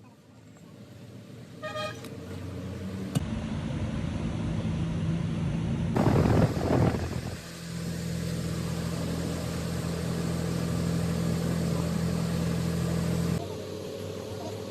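An engine running with a steady low hum, starting abruptly about three seconds in, with a louder rush of noise a few seconds later and a sudden drop near the end. A small metallic clink sounds just before it starts.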